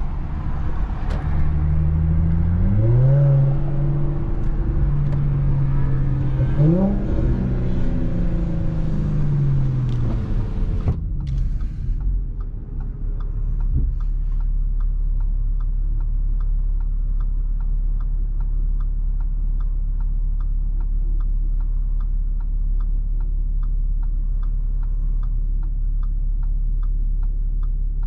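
Audi SQ5's V6 with AWE non-resonated downpipes and Touring catback exhaust, heard from inside the cabin, pulling away with two rising revs, then settling about twelve seconds in to a steady low idle rumble. A regular faint ticking runs over the idle.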